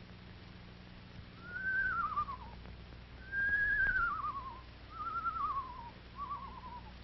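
Screech owl's whinny call, given four times: each call is a quavering whistle that falls in pitch, and the second is the loudest.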